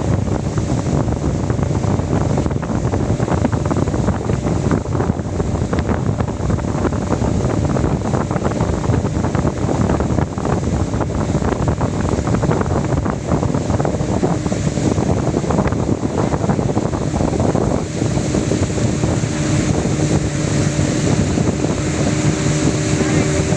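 Wind buffeting the microphone over a boat engine running steadily. The engine's hum stands out more clearly from about eighteen seconds in.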